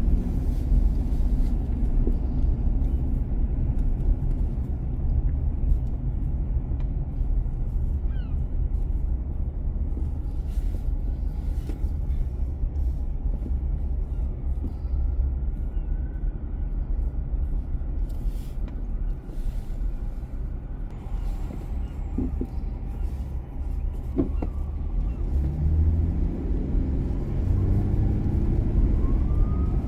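Car driving on city streets: a steady low rumble of tyres and engine, with the engine note rising over the last few seconds as it speeds up.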